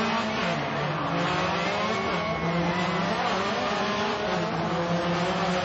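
Rally car engine revving, its pitch dipping and rising several times over a steady noisy background.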